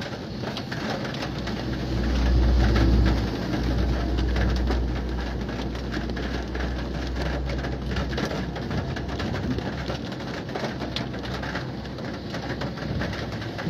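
Heavy rain pattering on a car's roof and windshield, heard from inside the moving car, with a low road and engine rumble that swells about two seconds in and fades after about eight seconds.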